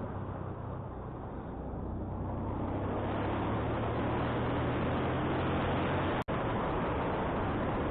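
Wind rushing over the microphone on a moving motorcycle, with the engine running steadily underneath as it climbs. The wind noise swells about two to three seconds in, and the sound drops out for an instant about six seconds in.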